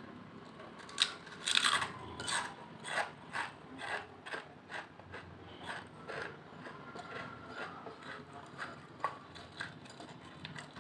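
Lay's potato chips being chewed close to the microphone: a steady run of crisp crunches, about two a second, loudest in the first couple of seconds and softer toward the end.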